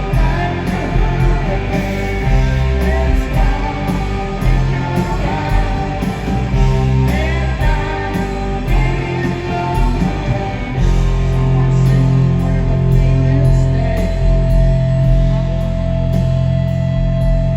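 Live rock band playing electric guitars, bass and drums, with singing. The low end gets fuller about two-thirds of the way in, and a long held note sounds over the last few seconds.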